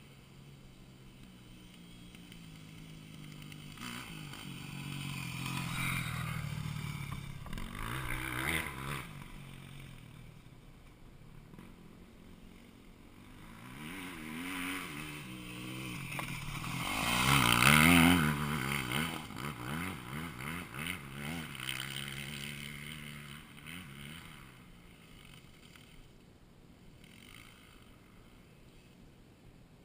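Dirt bike engines revving through the gears as bikes pass on the track, in two swells. The second swell, about halfway through, is the louder, and then the sound fades away.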